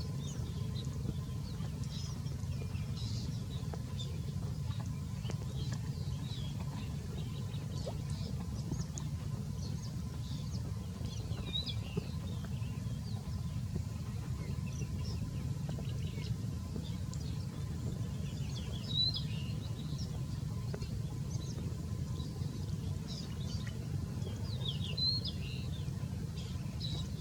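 Small birds chirping: short high chirps scattered throughout, a little louder about two-thirds of the way in and again near the end, over a steady low rumble.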